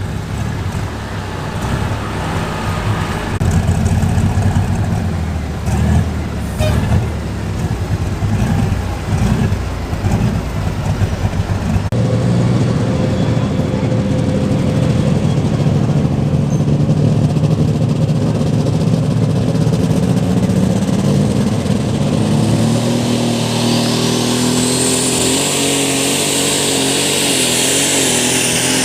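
Light super stock pulling tractor's engine running hard, uneven and pulsing at first, then settling about halfway in to a steady, loud full-throttle note. Near the end a high whine rises steeply and holds.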